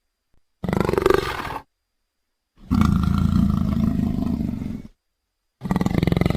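Leopard calling: three separate calls with short silences between them. The middle call is the longest, at a little over two seconds, and the last starts near the end.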